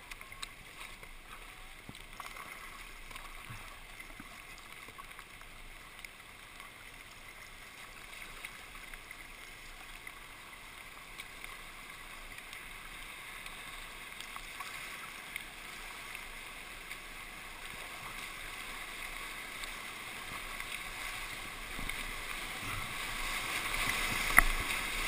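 Rushing whitewater of a river running high, a steady wash that grows gradually louder toward the end, with a single sharp knock or splash just before the end.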